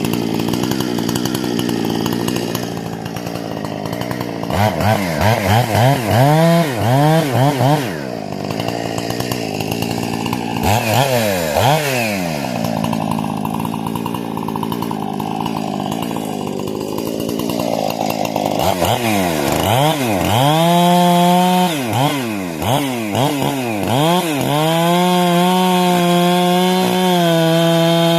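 Husqvarna 460 two-stroke chainsaw with a modified carburetor and muffler, running and revved up and down over and over, with a steadier stretch in the middle. Near the end it is held at a steady high rev.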